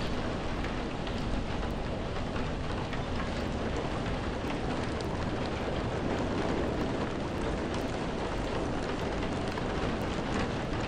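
Steady rain pouring without a break, with a deep, even rumble underneath.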